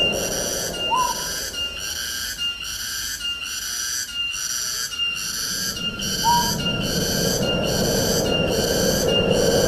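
Tropical forest ambience: wind in the trees rising and falling, under a high-pitched insect chorus that pulses about twice a second. A bird gives a short whistled call twice, about a second in and again about six seconds in.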